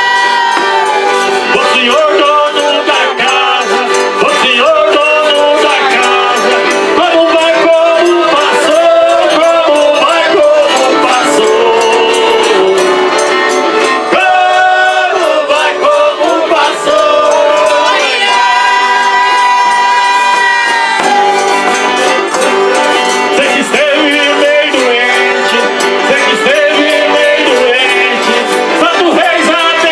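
Folia de Reis music: an eight-bass button accordion playing, with several voices singing and shaken percussion rattling. The accordion holds long chords at the start and again about two-thirds of the way through.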